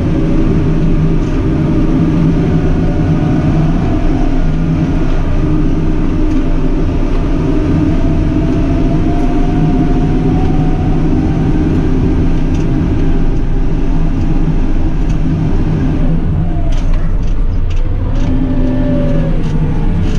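JCB 310S diesel engine running steadily under load while it handles straw bales, its note rising slowly through the middle. A few knocks near the end.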